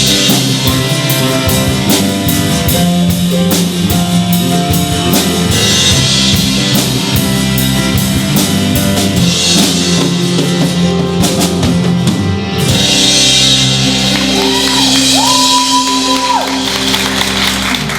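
Gospel rock band playing: a steady drum-kit beat with guitars and sung vocals.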